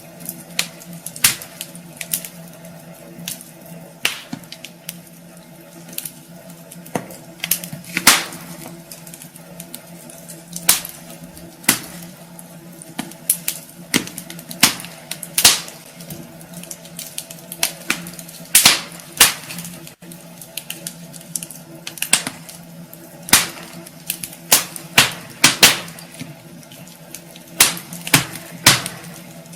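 Wood fire burning in a fireplace, crackling and popping irregularly, with louder sharp snaps every second or two, over a faint steady low hum.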